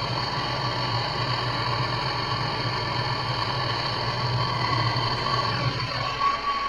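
Gas torch flame running with a steady hiss while it heats a seized part of a washing machine to loosen it. It shuts off abruptly at the very end.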